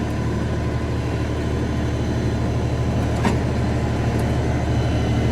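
LS diesel tractor engine running steadily as the tractor backs up, with a single brief knock about three seconds in.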